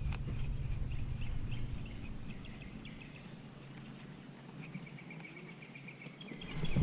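Outdoor ambience with a low rumble that fades after the first couple of seconds, then a run of rapid, evenly repeated high chirps from a small animal. A sudden loud noise begins right at the very end.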